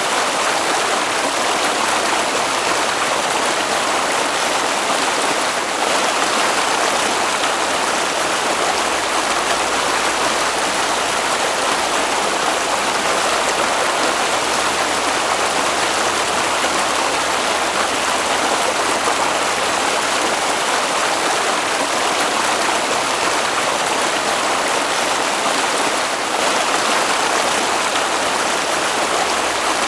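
Stream water flowing in a steady rush, with no pauses or changes.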